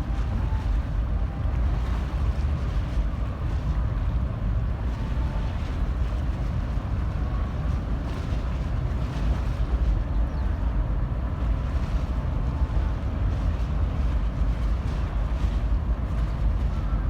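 Wind buffeting the microphone aboard the ferry Katsuragi, over a steady low rumble from the ship and the water around it.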